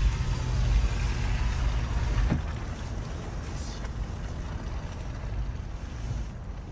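Car driving on snowy, slushy roads, heard inside the cabin: a steady low rumble with a wash of tyre and road hiss. A sharp click about two seconds in, after which the rumble gets a little quieter.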